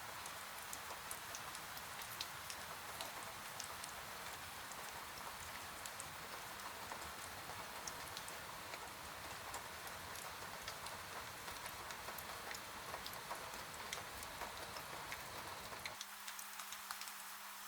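Steady rain falling, with many individual drops ticking sharply on a surface. About 16 seconds in, the deeper part of the rain sound drops away, leaving a faint low hum under the drops.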